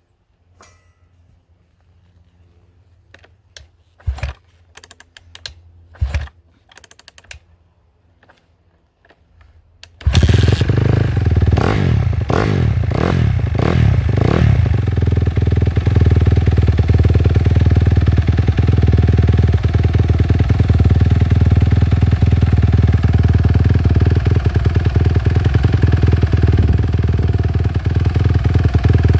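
2013 Honda CRF250R single-cylinder four-stroke engine with a Yoshimura RS9 twin exhaust on a cold start. A few knocks and clicks come first. About ten seconds in it fires, is revved up and down several times, then settles into a steady run.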